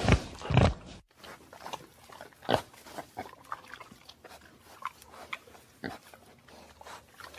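Two loud short sounds in the first second, then domestic pigs grunting and oinking in a string of short, irregular calls.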